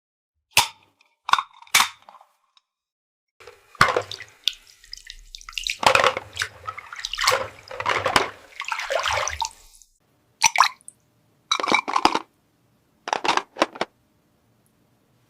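Water running and splashing in a miniature toy playset for about six seconds, with short, light plastic clicks and clatters of toy handling before and after it.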